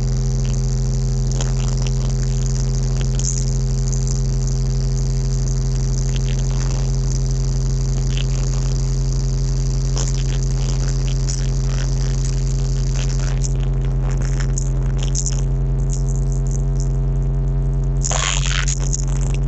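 Engine running at a steady speed: an unchanging low drone with a high hiss above it, which cuts off abruptly at the end.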